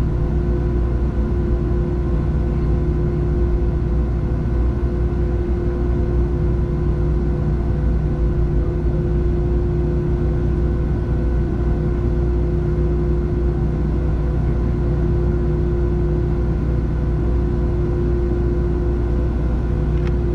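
Steady jet-engine cabin noise inside a Boeing 737-700, with the CFM56-7B engines running: a constant rumble with a steady hum of several held tones, unchanging in level.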